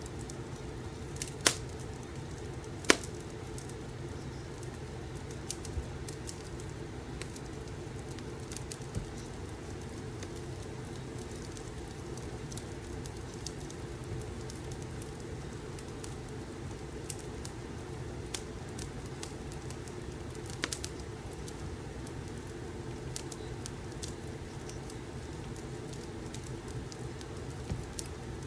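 Wood fire crackling, with irregular small clicks and two louder sharp pops near the start, over a steady low rumble.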